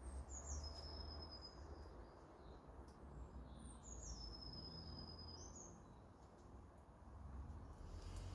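A bird calling twice: each call is a high, thin whistle that drops quickly and then holds one note for about a second. A low steady rumble lies underneath.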